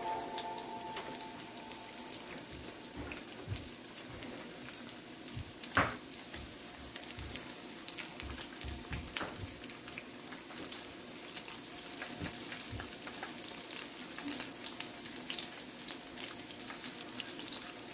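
Beguni (batter-coated eggplant slices) deep-frying in hot oil: a steady crackling sizzle with scattered small pops, and one sharper pop or tap about six seconds in.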